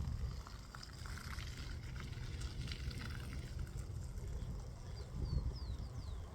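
Low rumble of wind on the microphone with scattered light clicks, and a few short high falling chirps near the end.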